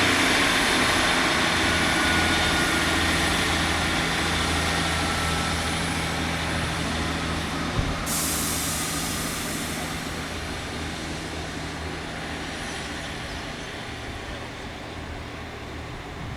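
Diesel train running with a steady low engine hum that fades gradually as it moves away. About halfway through there is a short, sharp hiss of released air.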